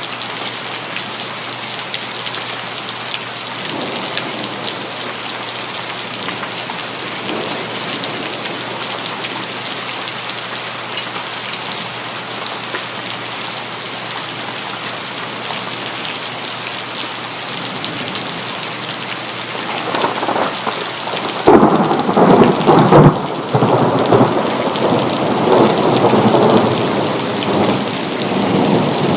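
Steady rain falling, with a thunderclap rolling in about two-thirds of the way through: it swells, is loudest a couple of seconds later, and keeps rumbling as it fades.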